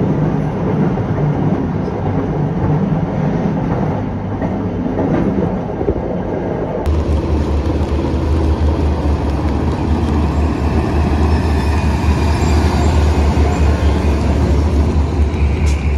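Passenger train running along the track, then a sudden change to the steady low drone of a diesel locomotive's engine running as it shunts.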